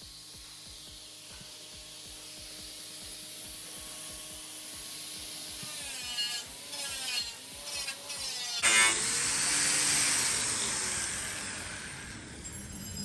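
Power tool spinning a small 100 mm abrasive cleaning disc against a truck's bare-metal bed panel, its motor pitch dipping and recovering as it is pressed in. About nine seconds in the scrubbing suddenly gets much louder and noisier.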